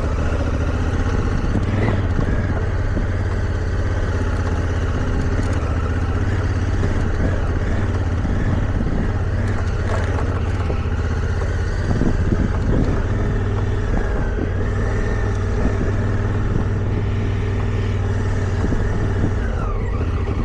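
Motorcycle engine running steadily under way on a dirt trail, with a few knocks from the bike going over bumps near the middle.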